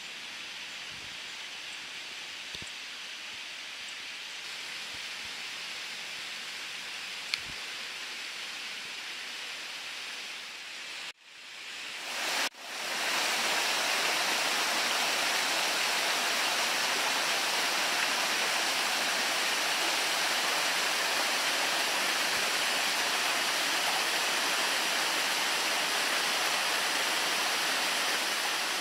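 A quieter steady hiss with a few faint knocks, then after a brief cut about twelve seconds in, the loud, steady rush of a waterfall close by.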